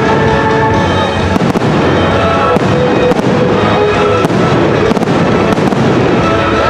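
Aerial fireworks shells bursting over and over, the pops scattered through a loud, continuous piece of music.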